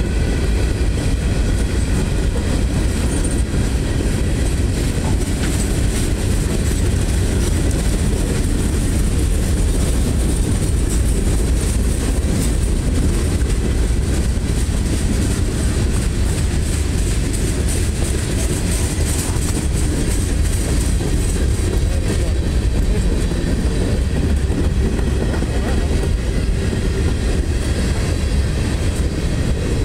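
Norfolk Southern freight cars rolling past at steady speed: a loud, even rumble of steel wheels on the rails, with light clacking scattered through.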